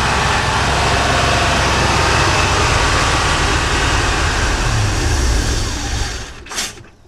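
Chevrolet K10 pickup's engine, fed by a freshly rebuilt Edelbrock carburetor, running at a fast idle, held too high by an electric choke set too tight. Near the end the engine is switched off and runs down, with a short sharp noise as it stops.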